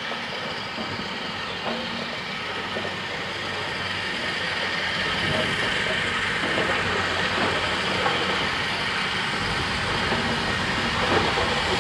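Steam-hauled train running on the line, growing steadily louder as it draws closer.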